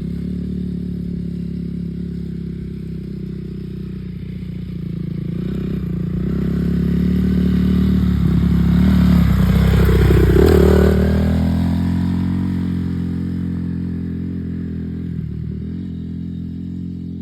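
Dirt bike engine running steadily at low speed. It grows louder to a peak about ten seconds in, then fades as the bike passes by and moves away.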